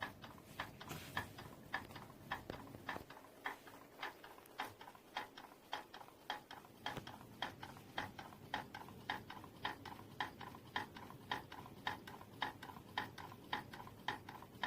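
Homemade Stirling engine running slowly, with a steady, even clicking and creaking about twice a second. The maker takes the creak and the slow running for a fault in the engine's shaft.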